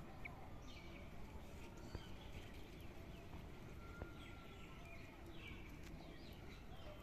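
Small birds chirping on and off over a steady low background of outdoor noise, with two sharp clicks about two and four seconds in.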